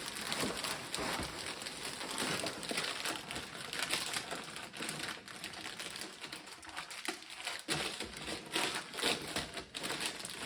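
Gift wrapping paper being torn and crumpled as a present is unwrapped, a continuous run of crinkling and tearing.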